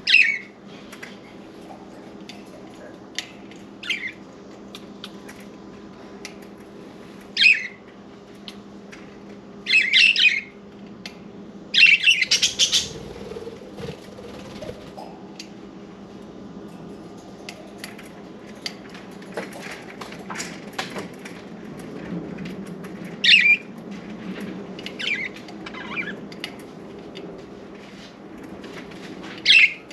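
Pet budgerigars giving short, harsh chirps and squawks every few seconds, with a quick run of calls about twelve seconds in, over a steady low hum.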